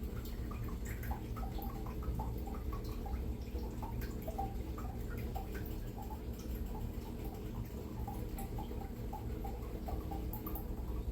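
Worcestershire sauce dripping and dribbling from the bottle's narrow shaker opening into a measuring cup: an irregular patter of small drops, several a second, over a steady low hum.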